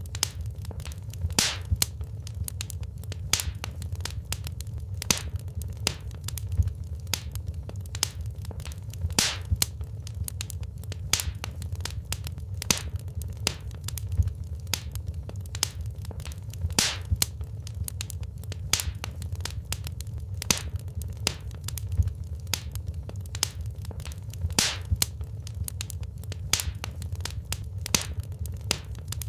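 Wood fire crackling in a fireplace: irregular sharp pops and snaps, a few a second, over a steady low rumble of the flames.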